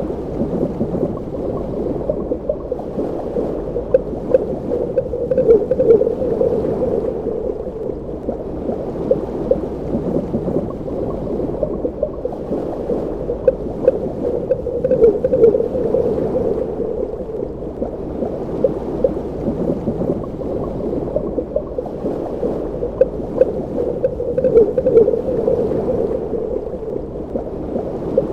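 Underwater ambience: a muffled, steady water rumble with gurgling, swelling a little about every ten seconds.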